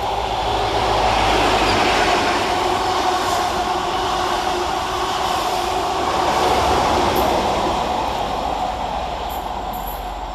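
ScotRail HST (Class 43 diesel power cars at each end) running past on the line off the Forth Bridge: a continuous rumble of engines and wheels on rail. It swells twice, about two and seven seconds in, then fades near the end.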